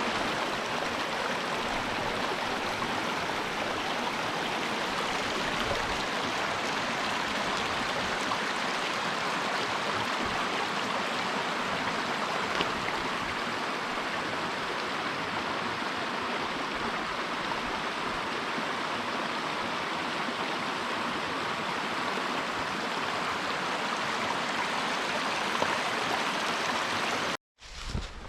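Stream water rushing in a steady, even wash of sound.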